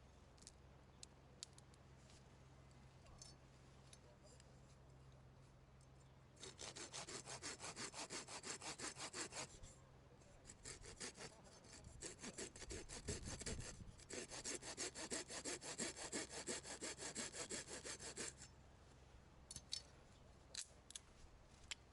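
Hand sawing: rapid, even back-and-forth saw strokes start about six seconds in, ease off briefly around the middle, then run on steadily for another six seconds before stopping. A few light ticks come before and after.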